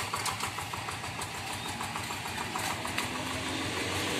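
Walk-behind hand tractor's single-cylinder diesel engine running steadily with an even, fast firing beat.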